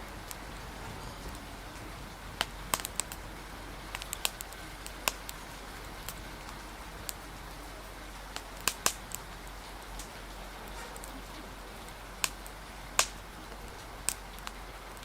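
Wood fire crackling, with sharp, irregular pops, loudest near the middle and about two seconds from the end, over a steady hiss of rain.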